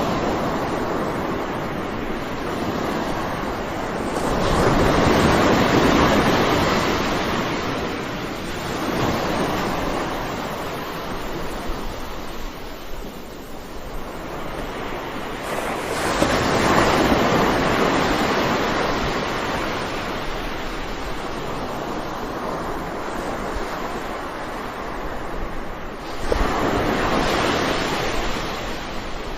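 Ocean waves breaking and washing back as surf. The sound swells three times, about ten seconds apart, and ebbs between.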